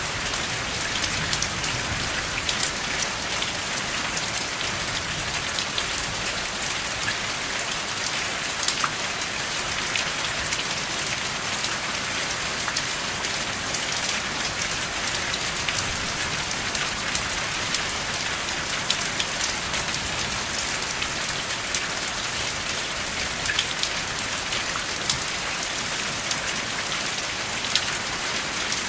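Steady rain falling as an even hiss, with single drops ticking sharply now and then. There is no thunder.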